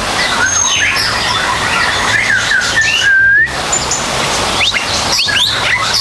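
Asian fairy-bluebird calling: a run of short liquid whistles that slide up and down, with one longer held whistle about three seconds in and quicker rising notes near the end.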